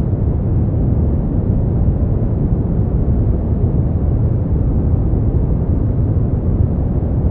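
Brown noise: a steady, even rush with most of its energy in the deep low end, fading off toward the treble, with no tones, rhythm or events.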